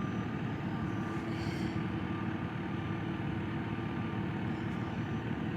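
Claw truck engine running steadily, a constant even hum with no changes.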